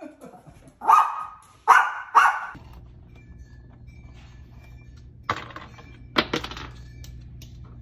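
A small dog barks three times in quick succession. Then, over a steady low hum, there are two sharp knocks about a second apart as a cat rummages among items on a pantry shelf.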